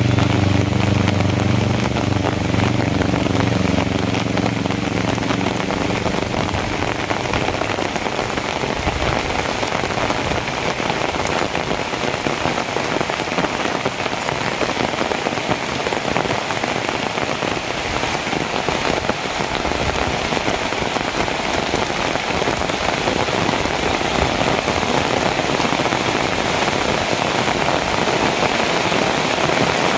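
Heavy rain falling steadily on hard surfaces, a dense even hiss. For the first few seconds a vehicle's engine hum sits under the rain and fades out.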